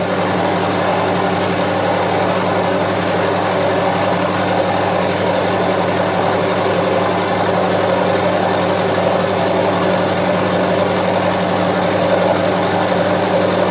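Milling machine running steadily, a constant motor hum with several fixed tones under a spread of machining noise, as it mills the edge of a cast iron bandsaw table.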